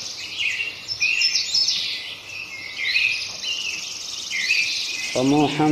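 Small birds chirping and singing in quick repeated phrases, some rising in pitch. Near the end a voice begins a long held chanted note.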